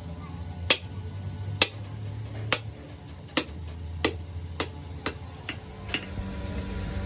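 Sharp ticks about once a second, coming faster near the end, over a low steady hum.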